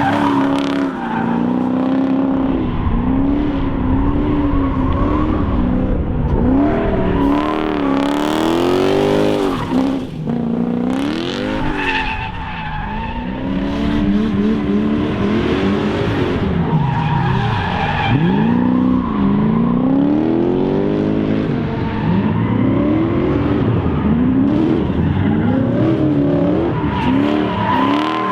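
Toyota 1UZ V8 in a Mazda B2200 drift truck revving hard, its pitch climbing and dropping again and again, over tyres skidding and squealing as it drifts.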